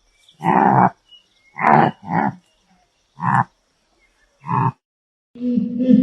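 An animal calling in five short, rough bursts spaced about a second apart, two of them close together. Music starts near the end.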